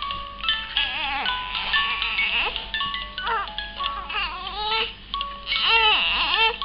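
An infant of about eight weeks fussing and crying in short rising-and-falling wails, about four seconds in and again near the end, over a simple electronic tune of single held notes.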